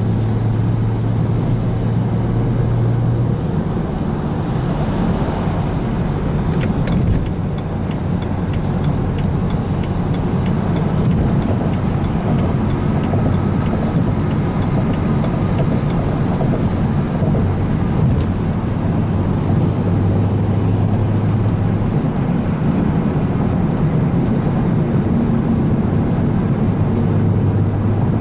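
BMW 335i E92's N55 single-turbo straight-six running while the car is driven, a steady low engine drone over road noise, its pitch shifting a few times.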